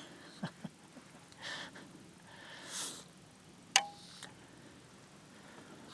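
Archery bow loosing a practice shot: a single sharp, loud snap of the released bowstring about two-thirds of the way in, with a brief ring after it. Soft breaths come before the shot.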